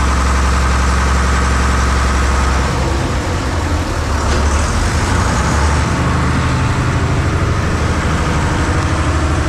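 Ferry's engine running steadily with a deep, loud hum and a wash of noise over it, which changes slightly about three seconds in.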